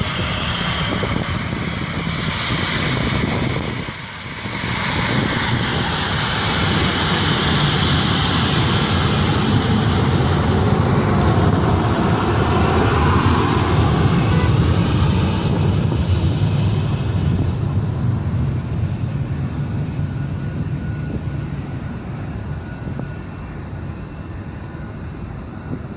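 Boeing 737-800's twin CFM56-7B turbofan engines roaring at takeoff power, dipping briefly about four seconds in, loudest in the middle, then fading and growing duller as the jet moves away.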